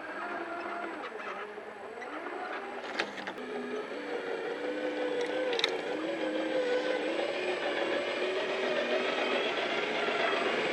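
A radio-control scale truck's motor and gears whining as it drives, the pitch rising and falling with the throttle, with a couple of sharp clicks about three and five and a half seconds in; it grows gradually louder toward the end.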